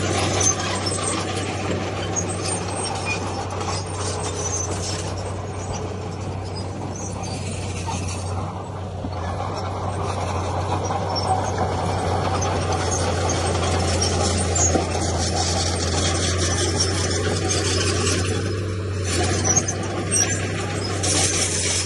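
Komatsu D31P crawler bulldozer working: its diesel engine runs steadily under scattered high squeals and metallic clanking and scraping from its steel tracks and blade on stone.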